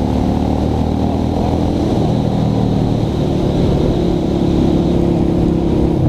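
Honda Shadow V-twin motorcycle engine running under way, heard from on the bike. Its pitch rises about two seconds in as it accelerates, then holds steady.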